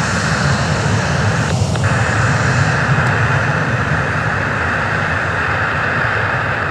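Boeing 737-800 jet engines at high power as the airliner departs: a loud, steady noise, heaviest in the low rumble.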